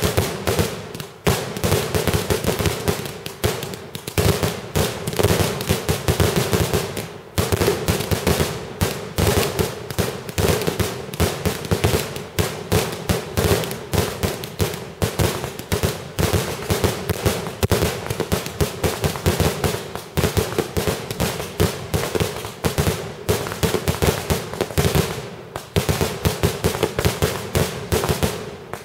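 Fireworks display: a rapid, nearly continuous barrage of bangs and crackling reports, many a second, easing briefly about a second in, again around seven seconds and near the end.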